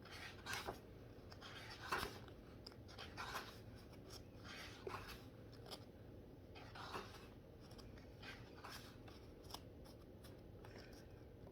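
Faint, irregular paper rustling with light ticks and taps, as of colouring-book pages being handled.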